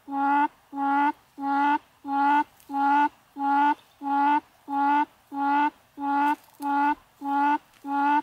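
A recorded quail call played on a loop through a loudspeaker as a trapping lure: one short pitched note repeated at a steady, machine-like pace, about three notes every two seconds.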